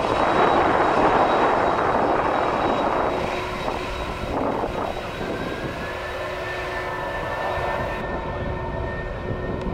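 Airliner engines passing: a loud rushing roar for the first three seconds that then fades, leaving a steady engine whine.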